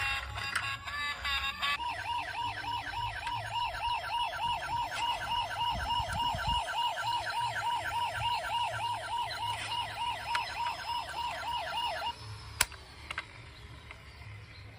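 Electronic siren of a toy emergency vehicle: a fast warbling yelp that rises and falls about three times a second. It starts about two seconds in and cuts off suddenly near the end, followed by a single click.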